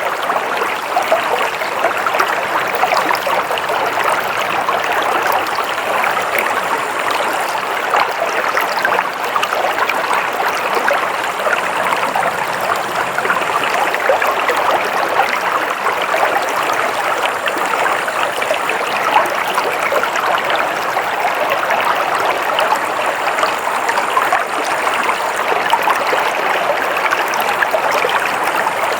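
Stream water flowing and splashing steadily over rocks, a constant bubbling rush.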